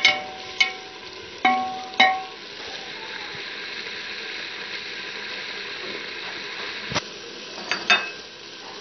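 Minced meat with onions and garlic sizzling in oil in a metal pot while a spatula stirs it. The spatula knocks against the pot, which rings out in clear tones four times in the first two seconds and three more times near the end.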